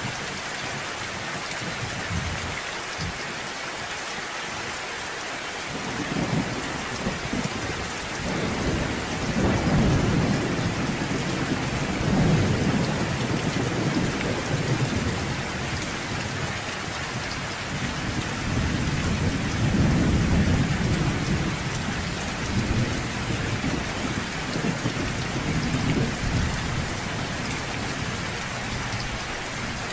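Steady rain falling, with rolling thunder rumbling in low swells through the middle, the loudest rumbles about ten and twenty seconds in.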